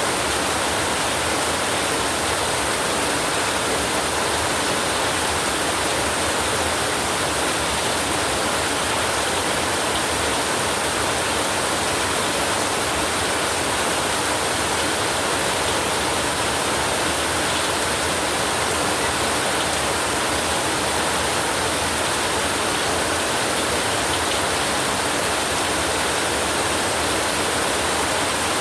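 Heavy rain falling on a tin roof: a steady, unbroken hiss that does not change in level.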